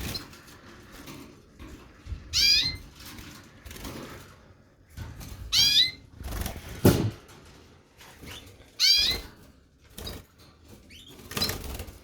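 Canary chirping, four short high wavering calls about three seconds apart. A single sharp knock comes about seven seconds in.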